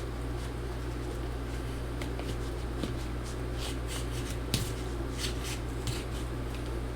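Short scrapes and clicks of a tool prying at the glued-in battery cells of a MacBook Pro, scattered and mostly in the second half, over a steady low electrical hum.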